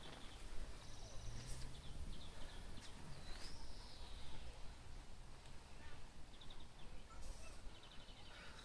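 Birds chirping and calling faintly over a low background rumble, with a few soft clicks.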